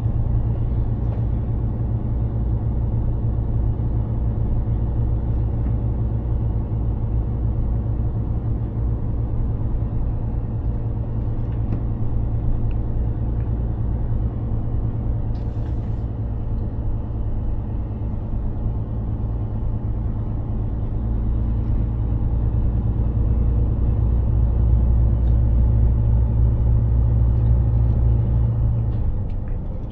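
Mercedes-Benz Actros 2763 truck under way, its engine and road noise making a steady low drone that grows a little louder in the last several seconds, then drops off just before the end. A brief hiss about halfway through.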